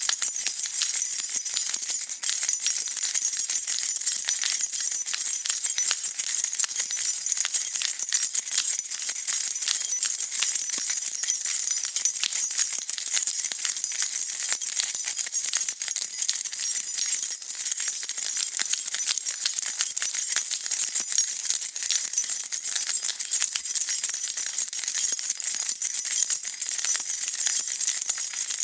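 A bunch of metal keys being shaken and jingled without a break, a dense run of high, bright clinks.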